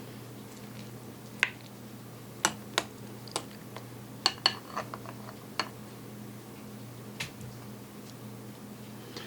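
An eating utensil clicking and scraping against a dish of tenshinhan, about nine sharp separate clinks a few times a second, as it is scooped up to eat. A low steady hum runs underneath.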